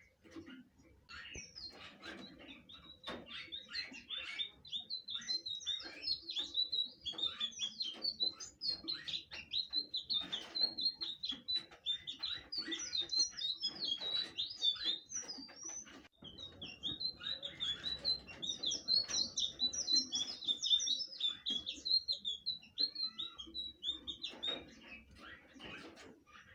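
Blue flycatcher (sikatan biru) singing a long, fast, rambling chatter of high chirps and trills. It breaks off briefly about two-thirds of the way through, then resumes.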